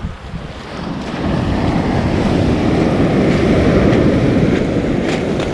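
Surf on a beach: a rush of breaking waves that swells from about a second in and eases near the end, mixed with wind on the microphone.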